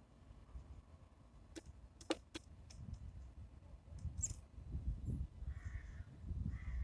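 Two short, harsh crow caws near the end, after a few sharp clicks and a brief high chirp, over a low rumble.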